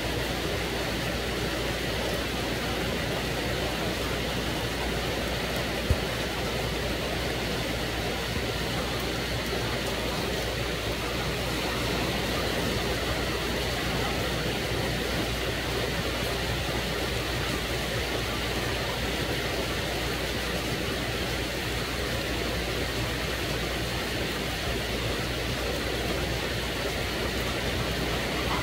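Heavy monsoon rain pouring down steadily, a dense, even hiss of rain. There is one sharp click about six seconds in.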